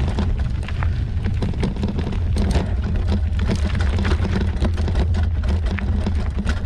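Mountain bike riding over rough, rocky trail: wind buffeting the microphone in a steady low rumble, with a constant patter of clicks and knocks from the tyres and bike rattling over loose rocks.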